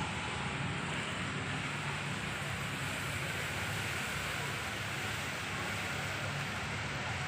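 Steady rain falling, an even pattering hiss with a low rumble beneath it.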